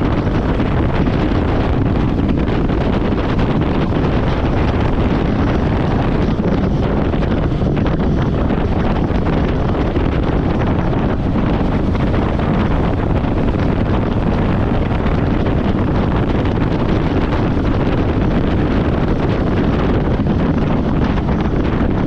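Wind rushing over a helmet-mounted camera microphone on a moving motorcycle, a steady, loud, low buffeting without a break.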